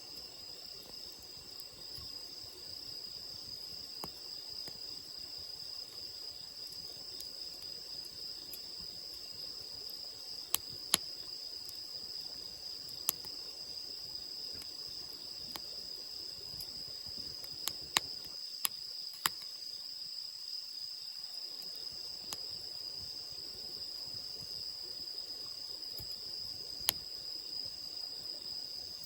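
Wood fire crackling, with a handful of sharp pops at uneven intervals, over a steady high chirring of insects.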